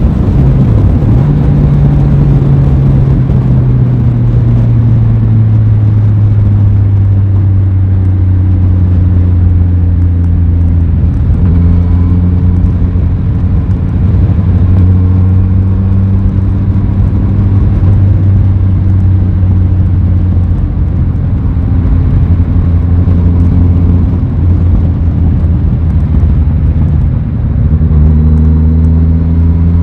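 Aprilia Tuono 660's parallel-twin engine running under way, its note dipping and picking up again about a second in, then holding fairly steady with small changes in pitch.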